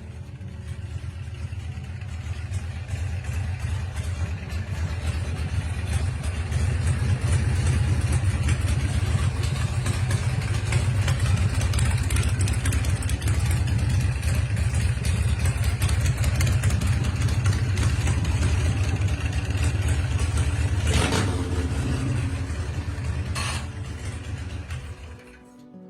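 A chopper's 100-cubic-inch V-twin engine running with a steady, deep rumble that builds over the first several seconds, holds, and dies away near the end. Two brief sharp noises come about three-quarters of the way through.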